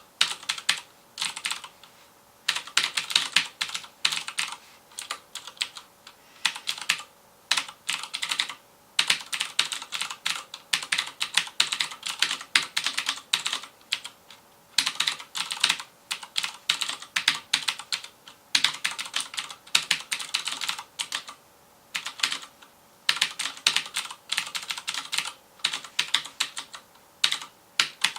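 Fast typing on a FILCO Majestouch Convertible 2 mechanical keyboard with Cherry MX Blue switches: a rapid stream of sharp clicky keystrokes in bursts, broken by brief pauses.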